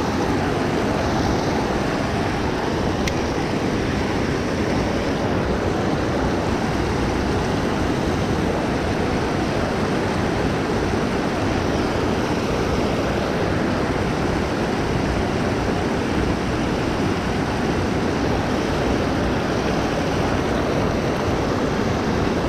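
Steady rushing of creek water running over shallow rapids.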